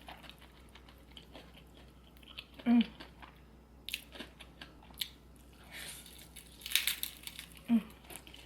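Close-miked eating of seafood boil: chewing and biting with scattered wet clicks, smacks and crunches, a cluster of crackly ones about two-thirds of the way through.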